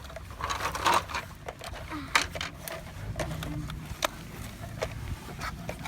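Toy construction trucks working in dirt: scattered clicks and knocks with brief scraping as a toy dozer pushes and scoops soil, over a steady low hum.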